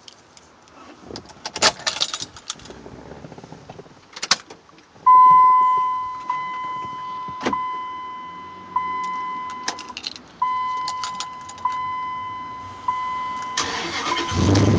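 Keys jangling, then the Dodge Ram's electronic dashboard warning chime dinging repeatedly, about once every second and a bit. Near the end the engine cranks and starts.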